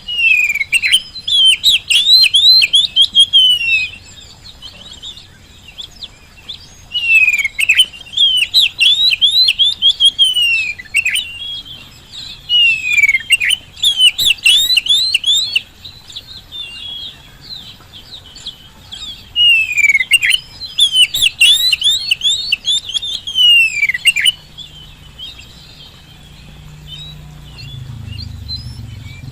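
Oriental magpie-robin (kacer) singing loudly in four bursts of rapid, varied whistled phrases, many sweeping downward, with pauses of a few seconds between them. After about 24 s the song stops, leaving faint chirps and a low rumble near the end.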